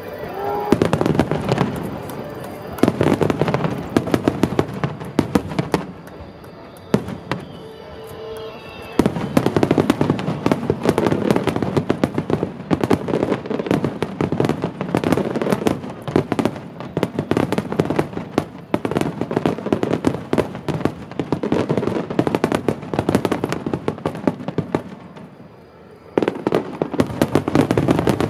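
Wide star mine fireworks barrage: a rapid, continuous volley of shell bursts and crackle. It eases into brief lulls about six seconds in and again a few seconds before the end, then resumes at full intensity.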